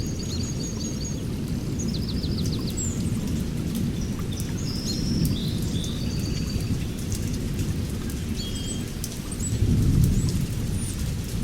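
Several birds chirping and trilling in short, high phrases over a steady low rumble that swells about ten seconds in.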